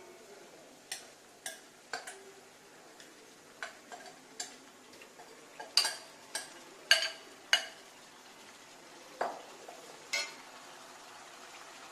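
Metal spoon knocking and scraping against a cooking pan in about a dozen sharp, irregular clinks as marinated chicken is added to a fried onion-tomato masala and stirred, with a faint sizzle of frying underneath.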